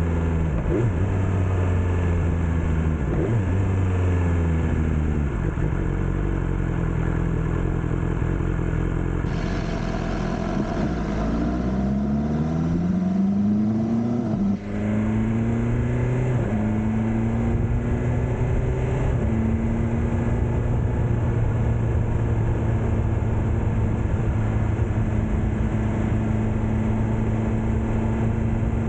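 BMW S1000R inline-four engine running on the road. It holds steady at first, then revs rising in pitch for a few seconds before a brief dip at a gear change about halfway through. After that it settles into a steady cruise with a couple of small steps up in pitch.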